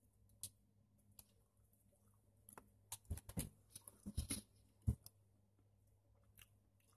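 Faint wet clicks and smacks of a denture wearer chewing sticky red licorice, bunched together from about two and a half to five seconds in, the loudest near the end of that run.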